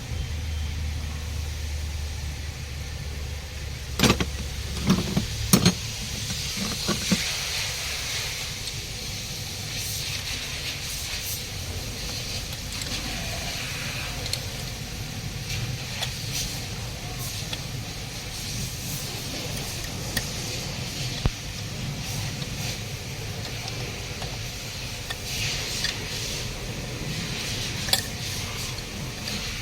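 A few sharp metallic clinks and knocks of hand tools on engine parts, several close together early and single ones later, over a steady background hiss.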